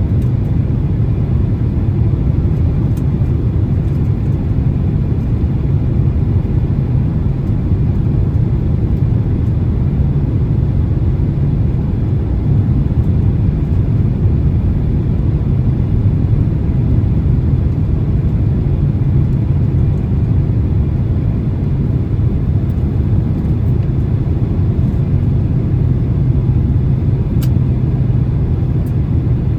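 Steady low rumble inside the cabin of a Boeing 767-300 on approach: engine and airflow noise with a few faint clicks.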